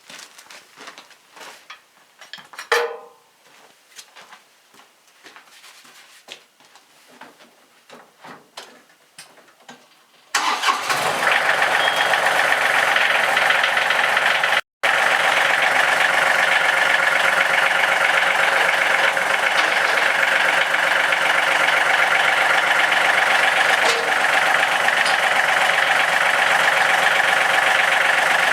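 Scattered light clicks and knocks, then about ten seconds in a tractor engine comes in abruptly and runs steadily and loud, cutting out for an instant a few seconds later.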